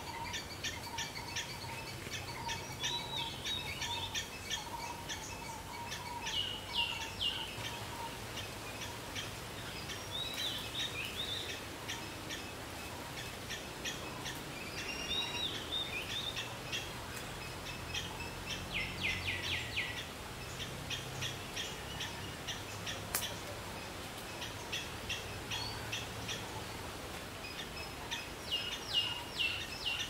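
Birds chirping and calling, with clusters of short, sharp high notes coming several times.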